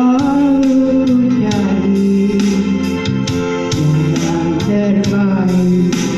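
Music: an elderly woman singing a held melody over plucked guitar and organ-like keyboard accompaniment, with a regular beat of percussive strikes.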